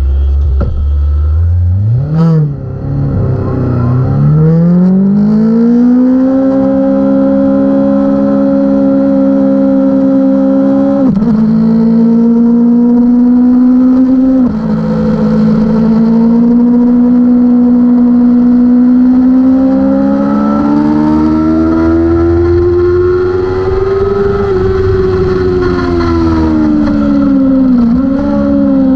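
600-class superbike race motorcycle's engine heard onboard, climbing steeply in pitch about two seconds in as it pulls away hard. It then holds at high revs through the gears, with short dips at upshifts near the middle and near the end.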